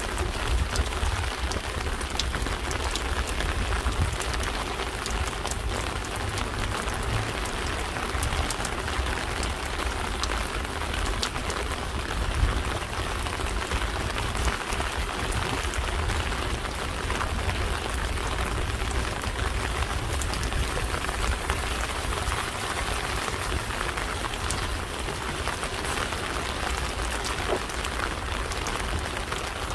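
Steady rain falling, a constant hiss with many separate drops ticking through it, over a low rumble.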